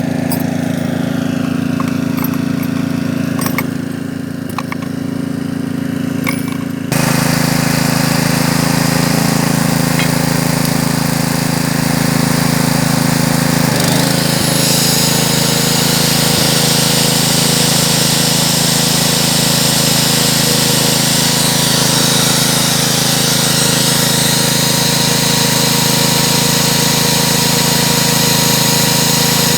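Magnetic drilling machine running. A steady electrical hum is joined about seven seconds in by the much louder drill motor starting up, and around the middle the sound turns brighter and harsher.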